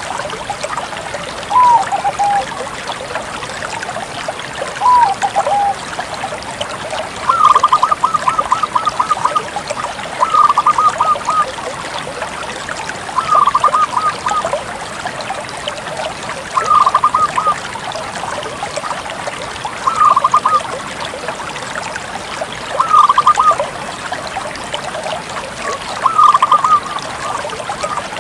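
Zebra dove of the Bangkok strain (perkutut bangkok) singing: two short coos early, then bouts of rapid staccato cooing notes repeated about every three seconds. A steady rushing, trickling noise runs underneath.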